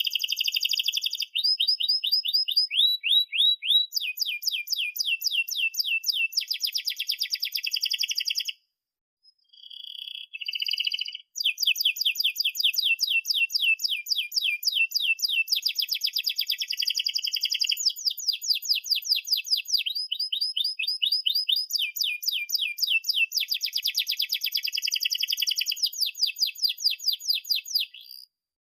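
Domestic canary singing a long song of fast repeated trills and rolling phrases, each phrase a quick run of the same note, with a break of a few seconds about a third of the way through.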